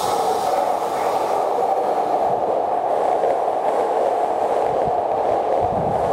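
Hankyu Kobe Line electric train running past, a steady, even noise of wheels on the rails.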